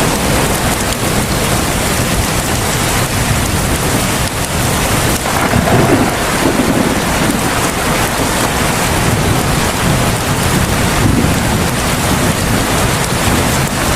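Heavy rain falling in a dense, steady hiss that swells louder for a moment about six seconds in.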